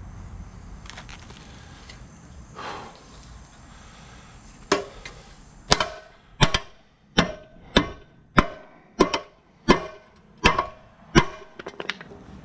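Hammer blows on a metal part of a mower's blower fan: a steady series of about ten sharp strikes, roughly one and a half a second, each ringing briefly, starting about a third of the way in.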